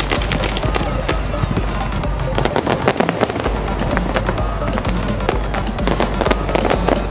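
Fireworks going off, many rapid cracks and pops, over loud music with a heavy bass line that drops out briefly about two and a half seconds in.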